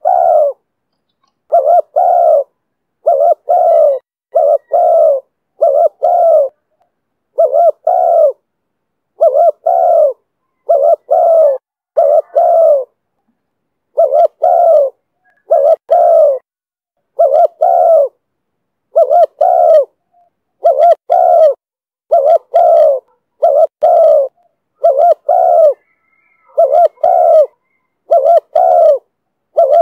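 Spotted dove cooing over and over in the 'thổ thúc bổi' voice. Its short coos come mostly in pairs, about one pair every second and a half.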